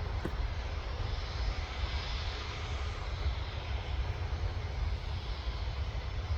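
Jet airliner engines on an arriving easyJet flight, a steady rumble and hiss that swells slightly about two to three seconds in.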